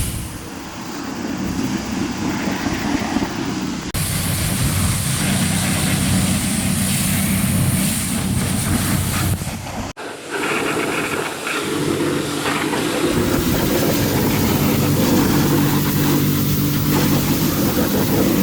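Motorised detailing equipment running with a steady hum and hiss, in several short clips that cut abruptly about four seconds and ten seconds in.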